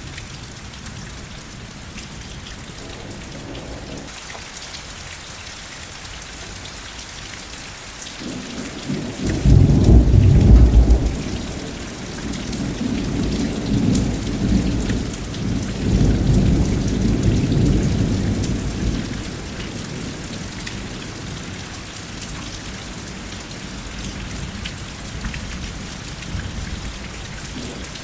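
Steady rain falling, with a roll of thunder that breaks in suddenly about a third of the way in, peaks loudest briefly and then rumbles on in waves for several seconds before fading back to the rain alone.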